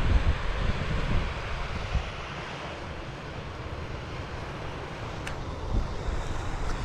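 Steady rush of a waterfall, with wind buffeting the microphone in low gusts, heaviest in the first second or so. A single sharp click about five seconds in.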